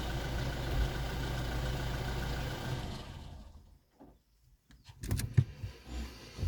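Vehicle engine idling with a steady low hum, then dying away about three seconds in as it is switched off. A few sharp clicks and knocks follow in the quiet near the end.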